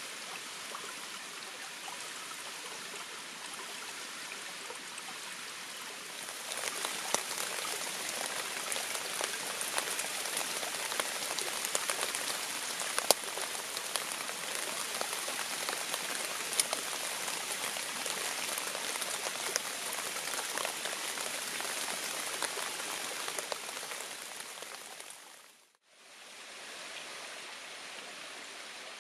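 Rain falling at night, with many small drop ticks; it grows heavier about six seconds in. Near the end it fades out and gives way to the steady rush of a forest stream.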